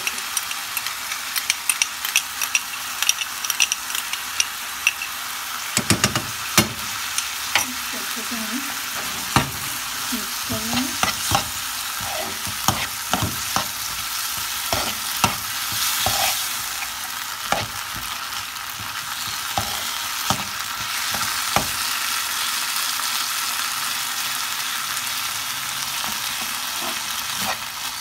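Diced chicken sizzling in a frying pan, stirred with a metal spoon that clicks and scrapes against the pan over a steady frying hiss.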